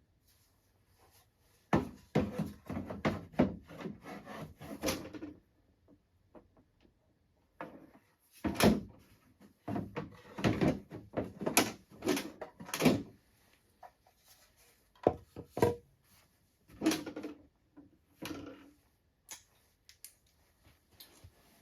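Clusters of knocks, clunks and rattles from parts being handled and set down, in bursts with quiet gaps between them.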